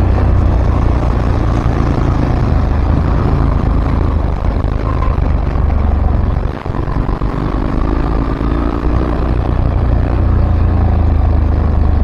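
Steady road noise while riding through traffic: a vehicle engine running with a low rumble of wind on the microphone, dipping briefly about six and a half seconds in.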